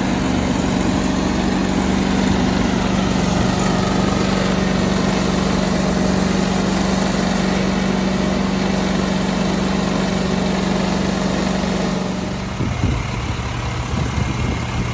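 An engine idling with a steady hum. About twelve seconds in, the hum drops away and a lower, rougher engine sound carries on.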